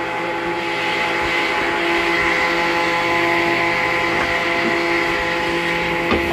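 Circular saw running steadily in a wood shop, a constant whine over the hiss of the blade.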